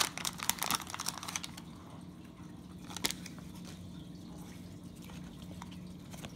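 A baseball card pack's wrapper crinkling and tearing in quick crackles for the first second and a half. Then quieter card handling over a steady low hum, with one sharp click about three seconds in.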